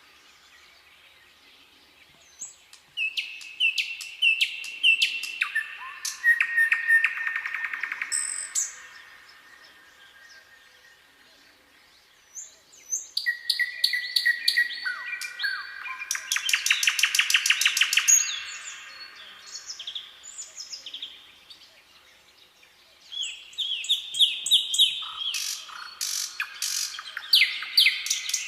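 Songbirds singing in three bouts of quick, high chirps and trills, each a few seconds long, with short quiet gaps between them.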